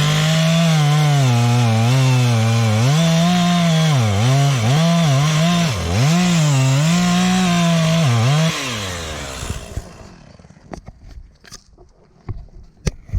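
Two-stroke chainsaw cutting wood at high revs, its pitch dipping again and again as the chain bites. About nine seconds in it drops off and falls silent, followed by scattered knocks and cracks.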